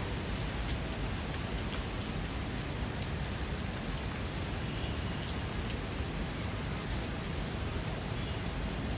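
Steady rainfall, a continuous hiss of rain with scattered individual drops.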